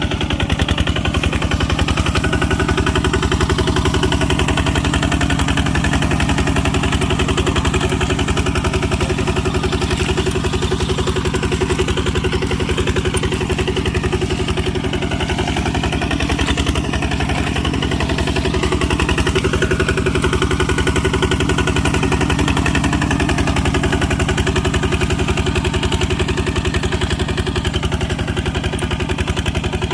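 Tractor engine running steadily at a constant speed, with a fast, even beat of firing strokes.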